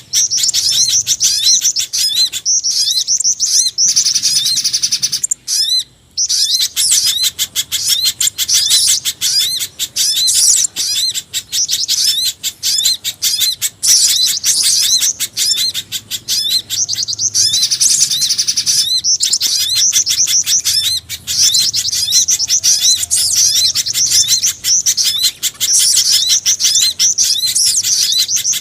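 Bird-lure recording of small songbirds: a dense, rapid stream of high chirps and twittering calls that repeat quickly. It mixes spiderhunter (pijantung gunung), sogon and jingjing batu calls to draw small birds in. There are brief pauses about 3, 6 and 18 seconds in.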